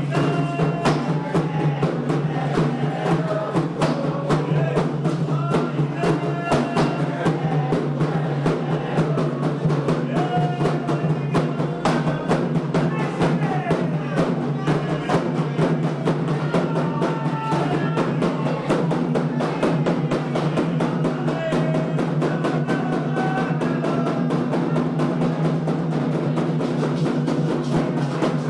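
Candomblé drumming: atabaque hand drums playing a fast, steady rhythm, with voices singing a chant for Xangô over them.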